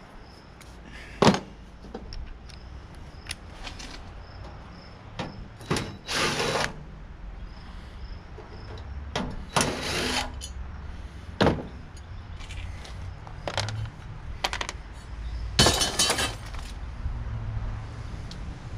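Hand tools working metal parts inside a tankless water heater: scattered clicks, knocks and short scraping rattles, with a low hum underneath.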